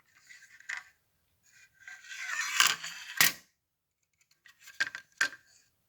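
Small hard objects being handled: a scraping rustle about two seconds in with two sharp clicks inside it, then two more clicks near the end.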